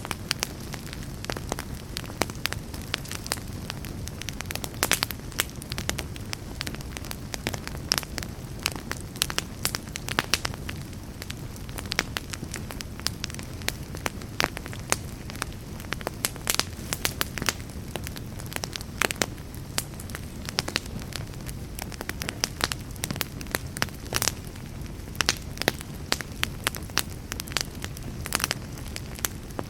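Campfire burning, with frequent irregular sharp crackles and pops over a steady low rush of flame.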